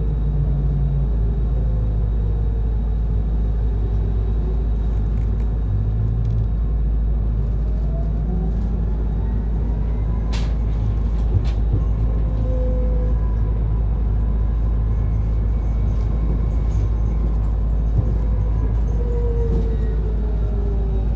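Cabin running sound of a Mitsubishi Fuso Aerostar Eco Hybrid city bus: a steady low rumble with a drive whine that falls in pitch at first, rises again about eight seconds in, and falls once more near the end as the bus speeds up and slows. Two sharp clicks sound about halfway through.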